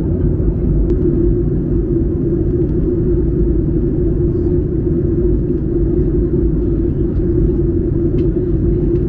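Steady cabin rumble of a Boeing 737-800 in flight, the noise of its CFM56-7B engines and the airflow over the fuselage heard from inside, with a steady low hum and a few faint ticks.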